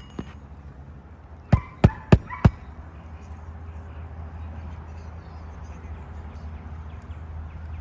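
Hammer driving a roofing nail into an asphalt shingle: four quick, sharp blows about a second and a half in. After them comes a steady low hum.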